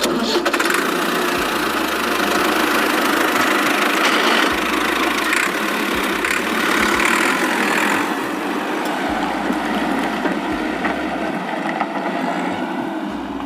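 Vehicle engine running steadily, a coarse, thin engine sound without deep bass.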